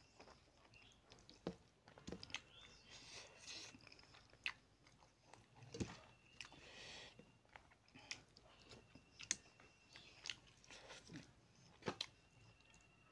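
Close-up eating sounds: chewing, lip smacks and wet mouth clicks as rice and fish curry are eaten by hand, with fingers squishing and mixing the rice on a steel plate. The sounds are soft, with scattered sharp clicks.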